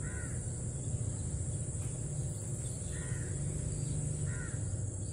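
A bird calls three times, short calls near the start, about three seconds in and again a second later, over a steady low rumble.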